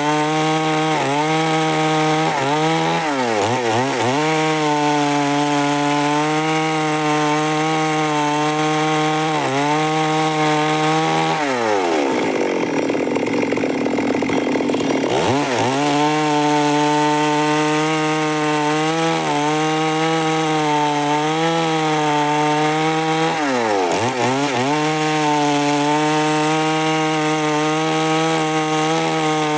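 Stihl MS 382 two-stroke chainsaw running at high revs, sawing through wood. Its pitch sags briefly several times, and about twelve seconds in it drops low for some three seconds before revving back up.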